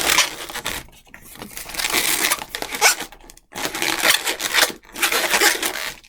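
Latex twisting balloons (260Q) rubbing against each other and the hands as they are twisted and handled, in about four stretches separated by short pauses.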